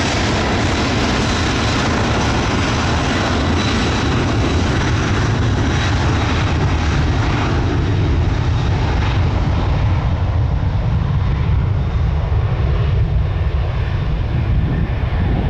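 Boeing 767-300 freighter's twin jet engines at takeoff thrust: a loud, steady deep rumble with a high whine on top that fades from about halfway through as the aircraft moves away.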